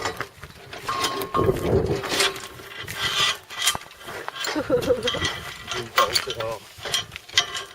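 Hand tools and metal gate hardware clicking and rattling as bolts and chain are refitted to a gate: a run of short, irregular metallic clicks.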